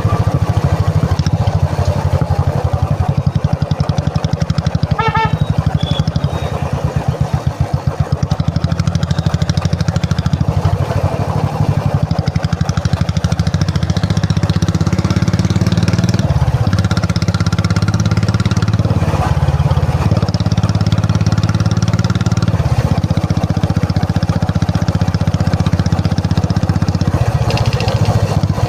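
Royal Enfield Classic 350 single-cylinder four-stroke engine running with a steady, even exhaust beat, easing off briefly about seven seconds in.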